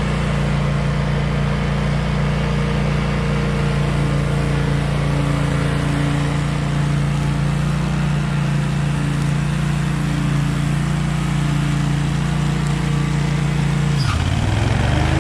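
Husqvarna V554 stand-on zero-turn mower's engine running steadily under mowing load. Near the end the engine note drops briefly and settles at a different pitch.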